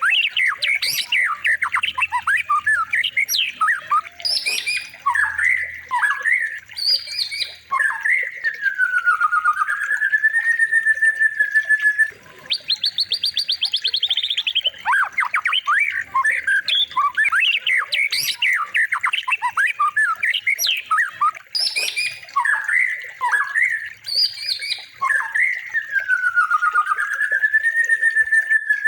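Looped songbird recording of the kind played to train a white-rumped shama: rapid chattering notes, a long whistle that dips and rises, and a fast high rattling trill. The same sequence comes round again about every 16 to 17 seconds.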